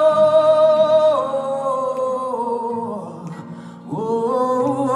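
Live rock song: a male singer holds long "whoa" notes over sparse band backing. The pitch steps down twice, the note fades about three seconds in, and a new "whoa" begins near the end.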